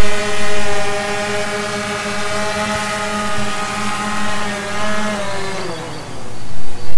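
DJI Phantom 2 Vision+ quadcopter's motors and propellers whining steadily in a hover, the pitch falling about five seconds in as the throttle is pulled back, then rising again near the end as the throttle comes back up.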